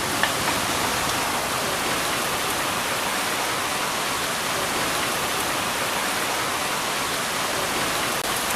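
Heavy rain pouring down steadily in a thunderstorm, an even rushing hiss.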